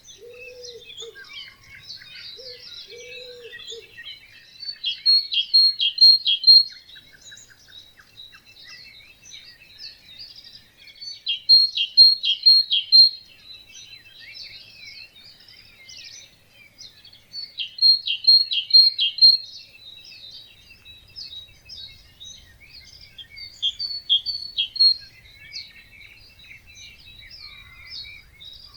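Many birds singing together in a wetland, with one loud song of quickly repeated bright notes coming back about every six seconds. A lower call sounds twice in the first few seconds.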